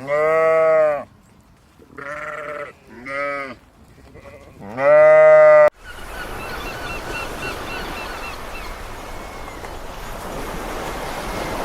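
Livestock bleating: four calls, the first and last long and loud, two shorter ones in between. About two thirds of the way in the sound cuts abruptly to a steady hiss, over which a faint run of short high chirps comes about three a second.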